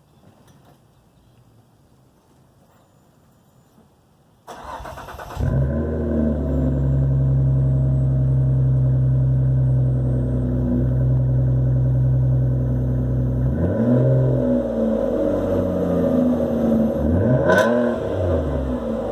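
Ford Fusion 3.0 V6 with Flowmaster Super 10 mufflers and the resonator deleted, cold-started: about four and a half seconds in the starter cranks briefly and the engine catches, then settles into a steady, loud high cold idle. Near the end the throttle is blipped twice, the exhaust note rising and falling each time.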